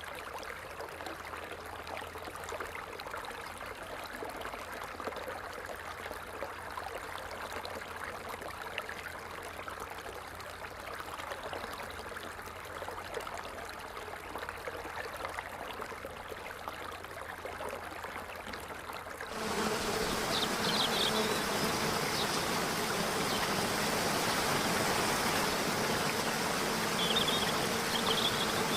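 Water falling and trickling in an even, steady stream. About two-thirds of the way in it switches abruptly to louder running water with a steady buzz of insects and a few short high chirps.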